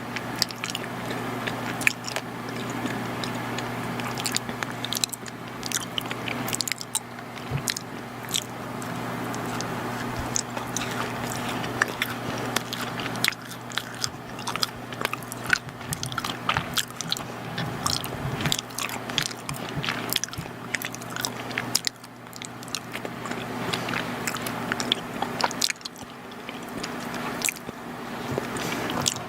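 Close-miked chewing and biting of soft, chewy chocolate baked goods, with many small sharp wet mouth clicks.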